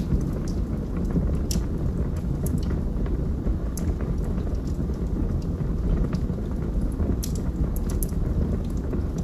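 Wood fire burning in a fireplace: a steady low roar of flames with scattered sharp crackles and pops from the burning logs, about one or two a second.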